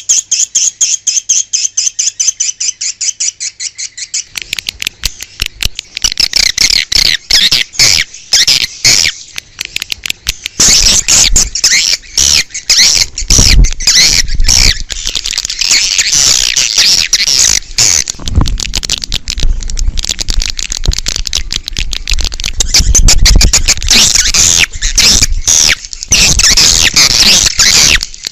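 A chorus of swiftlets twittering, the rapid trains of short, high chirps used as a lure to call swiftlets to a nesting house. A sparse stretch of pulsing calls at the start thickens into a dense, continuous chatter after about four seconds, with a few low rumbles underneath.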